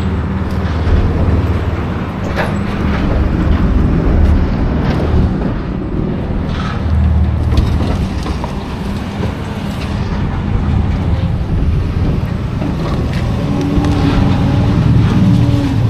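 A vehicle engine running steadily with a low rumble, plus scattered knocks and a brief held tone near the end.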